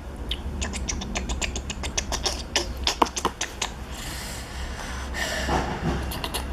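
Small toy pieces clicking and rattling as they are handled, a quick run of sharp clicks for the first few seconds, then a softer rustling with a few more clicks.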